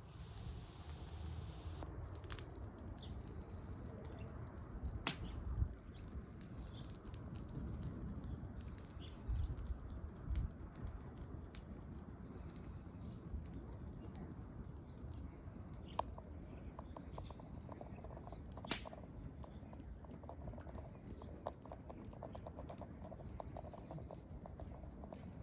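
Wood fire crackling, with small ticks throughout and two loud sharp pops, one about five seconds in and one about three-quarters of the way through. A low rumble of wind on the microphone runs underneath.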